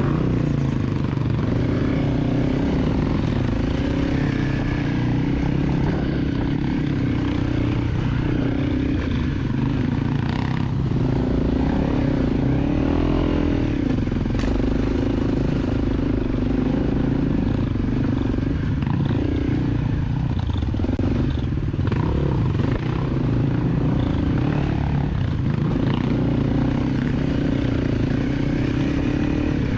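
250 cc dirt bike engine running steadily at low to moderate revs, the revs rising and falling now and then, with some clatter.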